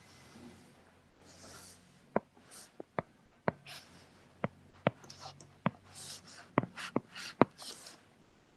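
Computer mouse clicking: about a dozen sharp, irregularly spaced clicks starting about two seconds in, with soft rubbing sounds between them.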